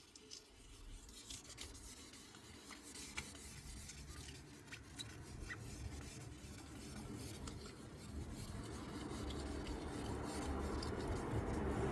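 Hand rubbing on car paintwork, sanding or polishing the panel by hand. The rubbing is dotted with small clicks and grows steadily louder toward the end.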